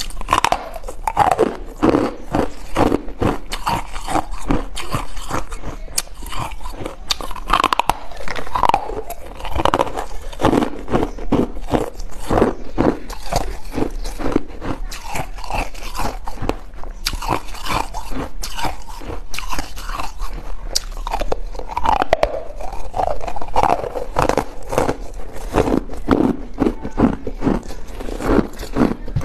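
Hard ice being bitten and chewed close to the microphone: dense, irregular crunching, several crunches a second.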